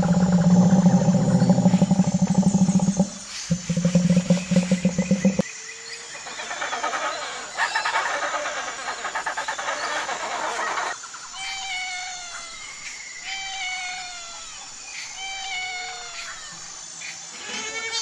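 Animal calls in quick succession. A loud, low, rapidly pulsing call runs for about the first five seconds. A noisy chattering stretch follows, and from about eleven seconds in come repeated short calls that fall in pitch.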